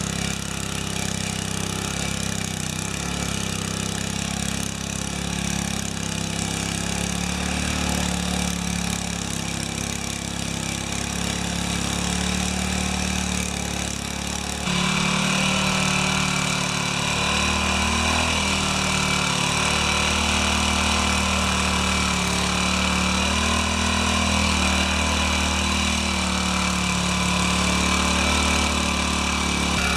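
Small gasoline engine of a garden power tool running steadily. About halfway through it abruptly becomes louder, with a harsher, brighter note.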